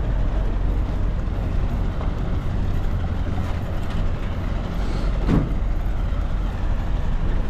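Road traffic: a steady low rumble of passing vehicles, with one brief sharp sound about five seconds in.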